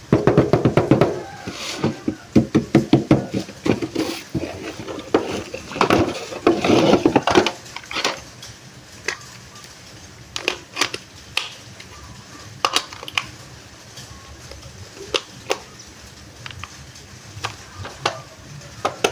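Unboxing a toy RC drift car: packaging rustling and crinkling for the first seven or eight seconds, then scattered light clicks and taps of hard plastic parts being handled.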